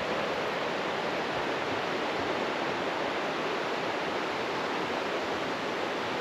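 Steady rushing of a fast-flowing rainforest creek.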